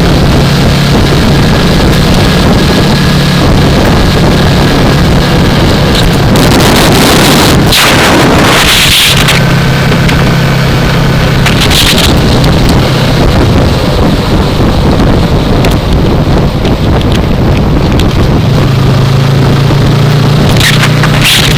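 Riding on a 2015 Yamaha R3, its parallel-twin engine running at a steady drone under heavy wind rush on a helmet-mounted microphone. A louder whooshing swell comes about six to nine seconds in, and shorter ones come near twelve seconds and at the end.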